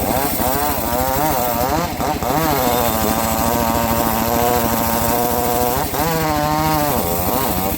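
A homemade bandsaw mill running while it saws a mahogany log. Its motor's pitch sags and recovers several times as the blade takes and sheds load. The pitch holds steady through the middle, then dips again near the end.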